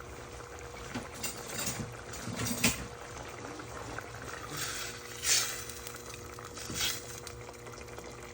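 Potatoes boiling in a pot of water, a steady low bubbling, with a few sharp knocks and brief scrapes of a utensil against the pot, louder about five and seven seconds in, as the potatoes are poked to test whether they are soft; they are still hard.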